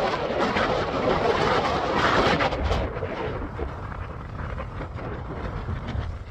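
Strong wind gusting over the phone's microphone: a loud rushing noise with low rumbling buffets, easing somewhat about halfway through.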